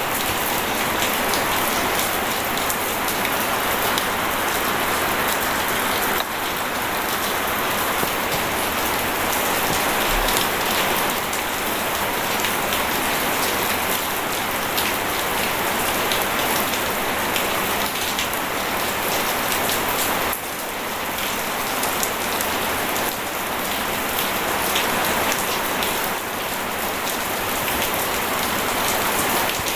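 Steady rain and running water: a dense, even patter of drops with no break, dipping slightly in level a few times.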